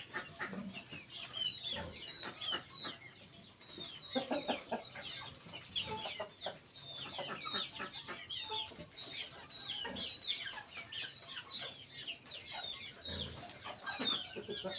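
A brood of chicks peeping in many short, high, falling chirps, with a hen clucking a few times among them.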